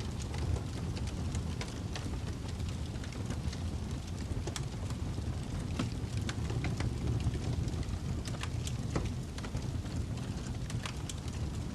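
Wood fire crackling in a fireplace: a steady low rumble of flames with irregular sharp pops and snaps, several a second.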